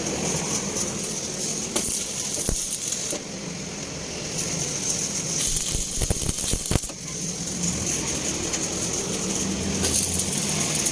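Metal parts clinking, with a few sharp knocks over a steady hiss: a cluster of knocks about six seconds in.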